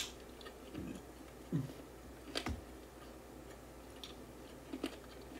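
A person chewing and gnawing meat off a grilled neck bone, quiet mouth sounds with a few sharp lip-smack clicks: the loudest right at the start and another about two and a half seconds in.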